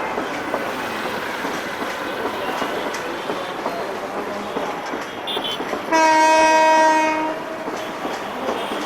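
Meter-gauge train rolling through the station with a steady rumble and wheel clatter. About six seconds in, a diesel locomotive horn gives one loud blast of about a second and a half.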